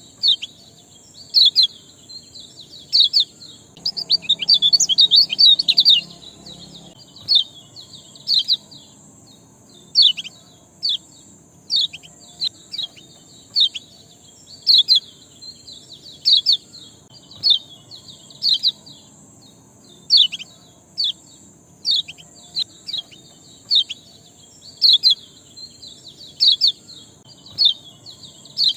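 A small songbird giving short, sharp, falling chirps one after another, about one a second, with a rapid flurry of chirps about four seconds in. It is a lure (pancingan) recording meant to stir caged birds into singing.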